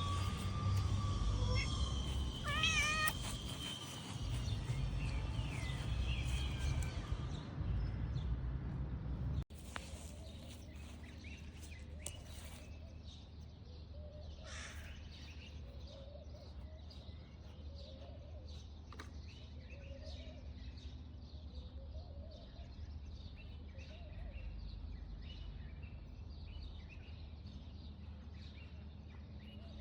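A cat meowing, short rising-and-falling calls repeated every second or two. A low rumble fills the first third and cuts off suddenly.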